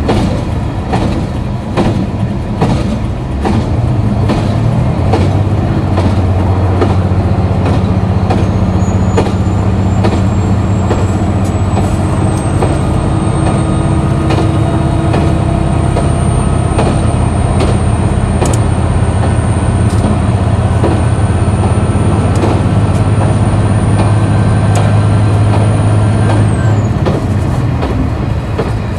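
KiHa 261 series diesel railcar's engine running hard under way, a steady low drone with a faint high whine that slowly climbs in pitch; both ease off about 27 seconds in. The wheels click over rail joints throughout.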